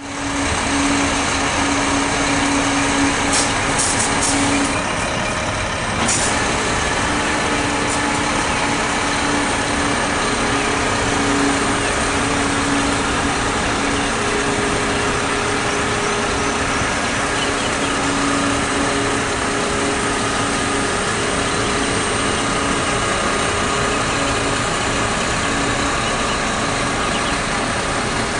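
Mack water truck running: a steady diesel engine hum under a constant dense hiss. A few short sharp hisses come between about three and six seconds in.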